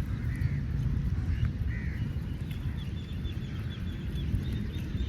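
Crows cawing twice, followed by a rapid run of short, high calls, over a steady low rumble.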